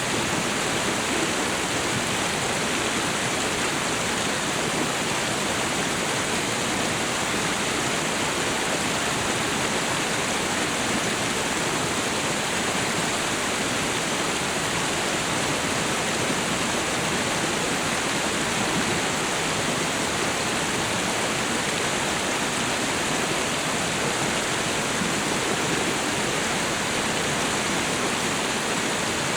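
Waterfall and river water rushing, a steady even roar of falling and flowing water with no breaks.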